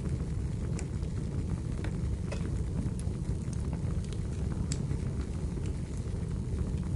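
Wood fire burning in a fireplace: a steady low rumble of the flames with scattered sharp crackles and pops from the burning firewood.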